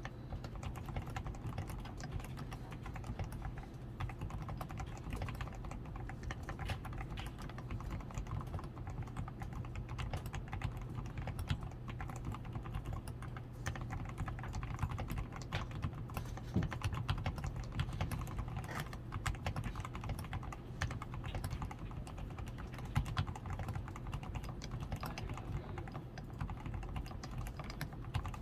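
Continuous typing on a DAREU A87 Pro mechanical keyboard with fully lubed switches (Krytox 105), tape-modded PCB, foam-padded switches, XDA keycaps and lubed stabilizers: a dense, steady stream of soft keystroke clacks.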